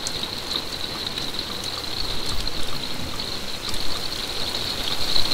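Rain shower falling: a steady high hiss with scattered ticks of single drops.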